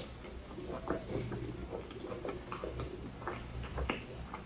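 Close-miked chewing of a cream puff: soft, irregular mouth clicks and smacks, a few to several a second.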